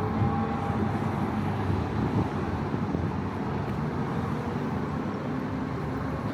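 Steady city traffic: a low, continuous rumble of cars and engines moving along a busy street.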